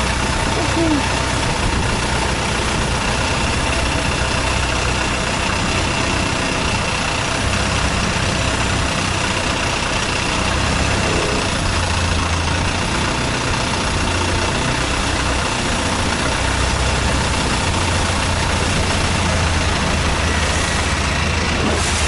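Boat engine running steadily: a continuous low hum under an even, unbroken noise.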